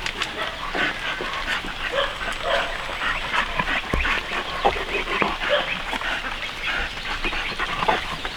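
A litter of newborn piglets squealing and grunting, many short high-pitched cries overlapping.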